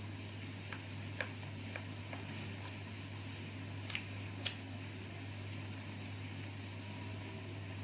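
A person chewing a meal, with a few small clicking mouth sounds over a steady low hum; the two clearest clicks come about four seconds in.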